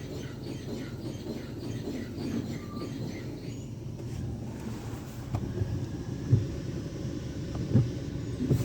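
Jim Coleman Water Wizard 1.0 car wash machine running with a steady low rumble. Faint regular ticking comes in the first half, and a few dull thumps come in the second half.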